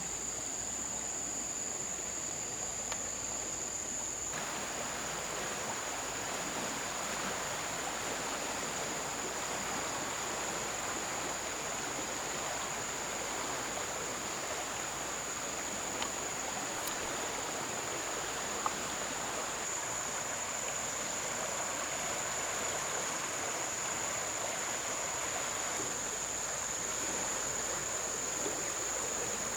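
Steady rush of flowing river water, with a constant high-pitched tone held above it throughout. A couple of faint clicks sound near the middle.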